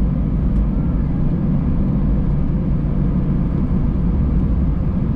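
Cabin noise inside an Airbus A319 on the ground just after landing: a steady, low rumble of the engines and the aircraft rolling.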